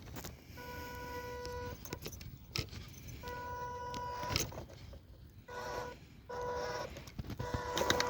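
MN168 RC crawler's electric motor and gear train whining in about five short bursts of throttle, each holding one steady pitch, with a few sharp clicks and knocks between the bursts.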